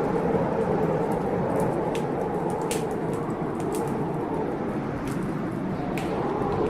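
Blizzard wind howling steadily past a window, its pitch drifting slowly, with the sharp crackles and pops of a wood fire every second or so.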